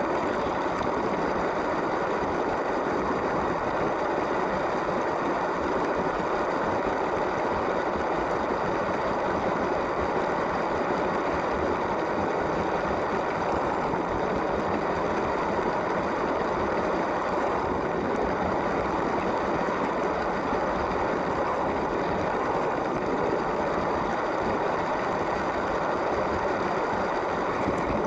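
LEGO train's small electric motor running with its wheels rolling on plastic track, a steady, unbroken noise with a faint whine.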